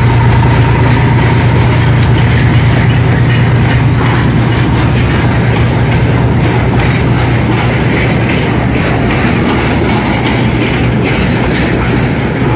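Freight wagons rolling past with wheels clicking over the rail joints, under the steady low drone of a 2TE10L diesel locomotive's 10D100 two-stroke opposed-piston engines working hard up a grade. The drone fades slowly as the locomotive draws away.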